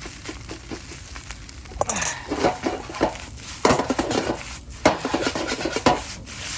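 A utensil stirring and scraping fried rice in an iron frying pan, with irregular scraping and clinking strokes that grow louder about two seconds in.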